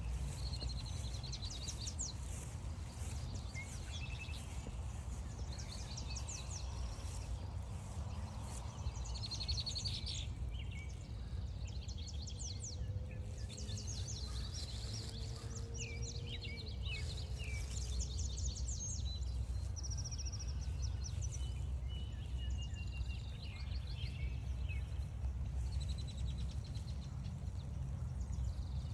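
Several songbirds singing and calling at once, in many quick short phrases and trills, over a steady low rumble.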